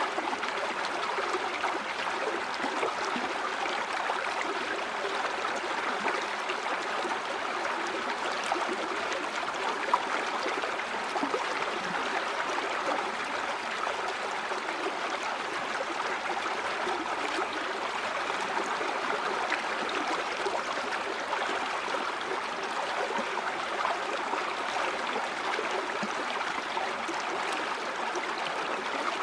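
River water flowing over rocks, a steady babbling and gurgling rush.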